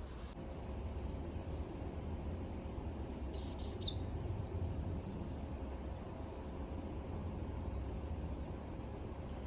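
Forest ambience: a steady low rumble with a short high bird chirp about three and a half seconds in and a few fainter chirps around it.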